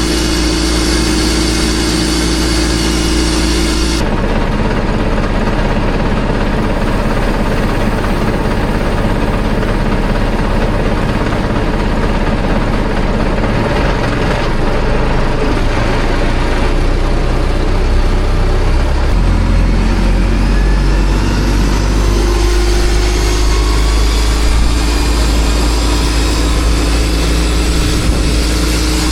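Boat engine running steadily and loudly. The sound changes abruptly about four seconds in, and the engine note shifts about two-thirds of the way through.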